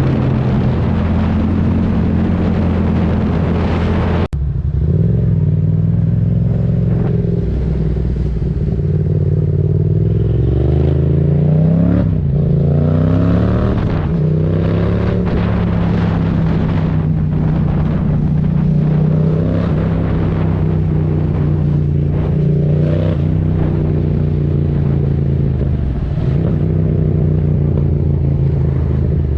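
Yamaha MT-07 parallel-twin engine through an aftermarket Mivv exhaust with the dB killer removed, ridden with the revs repeatedly rising and falling as it accelerates and shifts gears. Wind noise over the microphone during the first few seconds, then an abrupt change in the sound about four seconds in.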